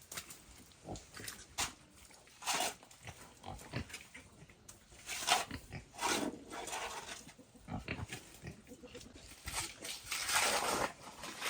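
Wild boar calling in short, irregular bursts, with a longer call near the end.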